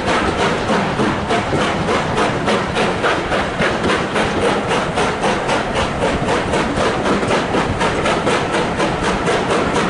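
Steam locomotive working a train, its exhaust beats coming in a quick, even rhythm of about four to five chuffs a second.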